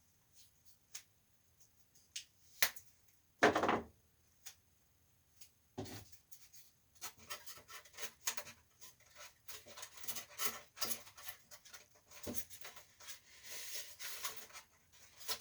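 Electrical tape being pulled off the roll and pressed over cracks in a window air conditioner's plastic housing: faint scattered clicks and rubbing, becoming a busier run of crackling and rubbing in the second half.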